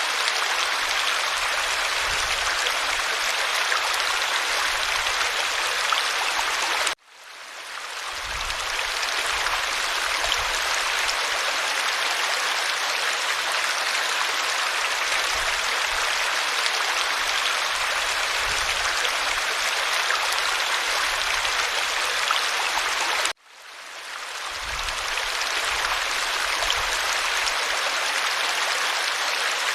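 Steady rushing of a creek's flowing water. Twice the sound cuts out suddenly and fades back in over a second or two, the seam of a looped recording.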